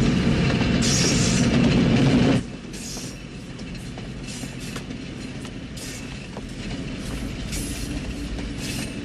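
Runaway diesel locomotives running fast on the rails. A loud, dense rumble cuts off suddenly about two seconds in, giving way to a quieter steady rumble with scattered rattling and clicking.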